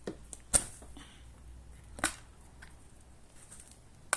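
Sharp clicks and snaps as upholstery staples are pried out of a sofa with a screwdriver, the loudest about half a second in and another about two seconds in.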